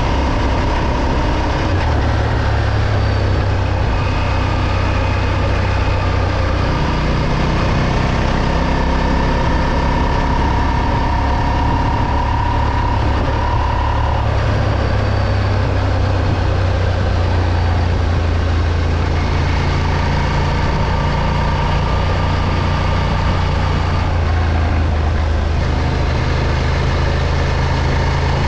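Moto Morini X-Cape 650's parallel-twin engine running while riding on the road, its note shifting up and down a few times with the throttle, over steady wind and road noise.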